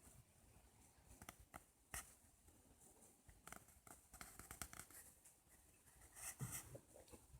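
Faint, irregular crackles and pops of a wood fire burning in a Meta Amur-9 stove-fireplace's firebox, thickening into a cluster of quick crackles in the middle and again near the end.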